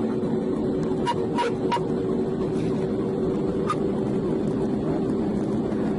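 Sport bike engine held at high revs at speed, a steady drone mixed with wind and road noise. A few faint clicks sound about a second in.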